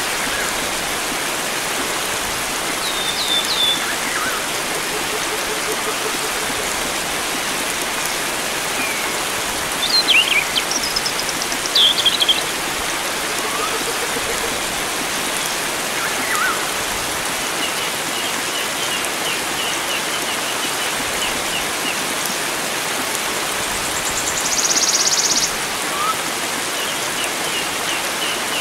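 Steady rush of flowing water with wild birds calling over it: scattered short chirps and whistled notes, a louder burst of calls about ten to twelve seconds in, and a brief high buzzy trill near the end.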